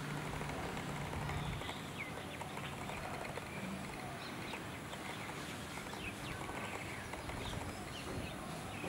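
Outdoor background with a steady low hum that stops about a second and a half in, and scattered short, high chirps of small birds.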